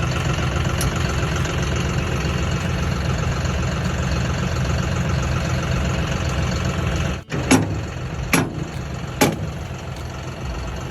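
Farm tractor's engine idling steadily, with three sharp knocks about a second apart near the end.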